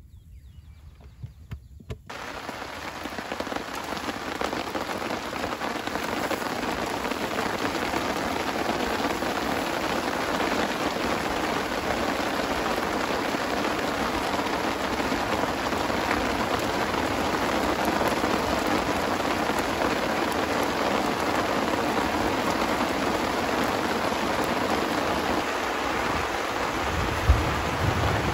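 Heavy rain falling steadily, starting suddenly about two seconds in, with a low rumble near the end.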